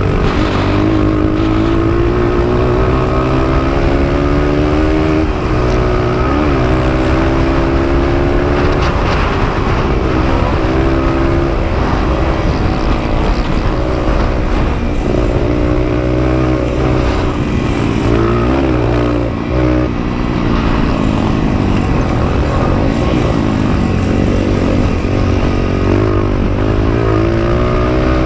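Honda XR100's air-cooled single-cylinder four-stroke engine at racing throttle, heard close up from the bike: the revs rise and fall again and again through gear changes and corners, easing off briefly about two-thirds of the way through.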